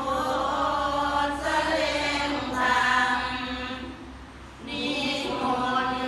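A group of voices chanting together in unison, a Buddhist chant, with a short break for breath about four seconds in.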